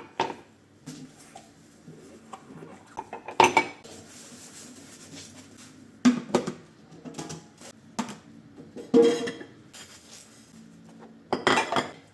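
Dishes and cutlery clattering as they are handled, with a handful of loud clinks and clatters a few seconds apart and a longer run of clattering near the end.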